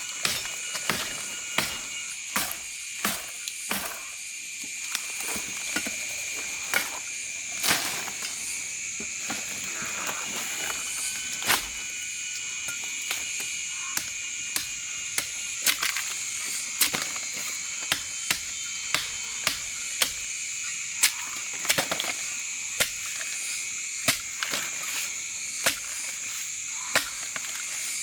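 A steady, high-pitched chorus of forest frogs and insects, with irregular sharp knocks and cracks about once a second.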